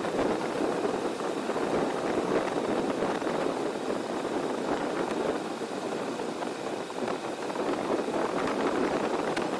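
Heavy wind buffeting on a motorcycle-mounted 360 camera's microphone while riding, a loud, uneven rushing that swamps the motorcycle's engine.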